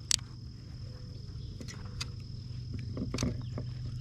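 Crickets chirring in a steady high tone, over a low steady hum, with a few short sharp clicks and knocks spread through.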